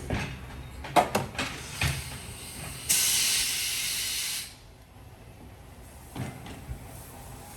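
A few knocks and clicks, then a sudden loud hiss of compressed air that lasts about a second and a half and cuts off.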